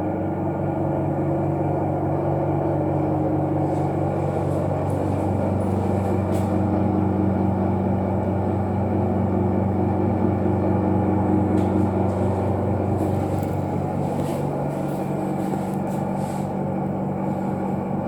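Washroom ventilation fan running with a loud, steady, abnormal droning noise made of several low humming tones, with a few faint ticks. The noise is unusual and worrying enough to suggest something is wrong with the fan.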